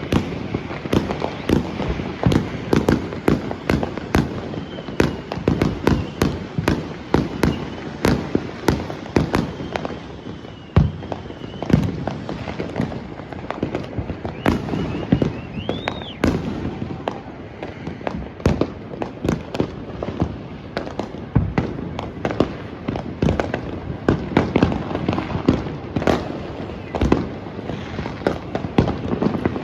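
Continuous fireworks barrage: sharp bangs and crackling going off several times a second, with a few whistles, one rising and falling about halfway through.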